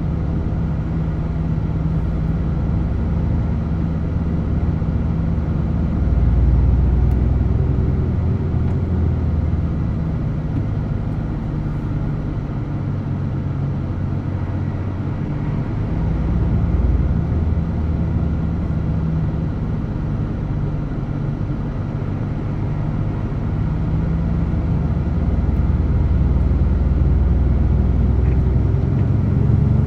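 DAF truck's diesel engine running under way, a steady low rumble, its pitch rising slowly near the end as the engine speeds up.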